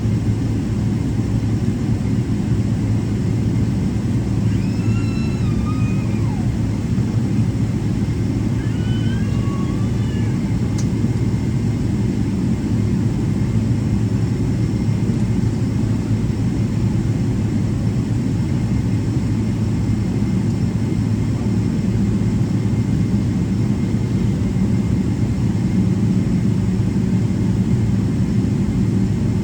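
Steady low rumble inside the cabin of a Boeing 777-300ER taxiing toward its gate, its GE90 engines running at taxi power.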